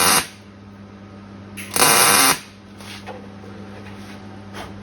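Two short bursts from a workshop tool, each about half a second: one right at the start and one about two seconds in. A steady low hum runs underneath.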